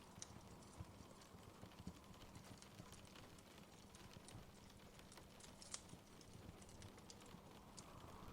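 Faint crackling of a wood fire in a fireplace: irregular small pops and clicks over a steady low hiss, with one louder pop about five and a half seconds in.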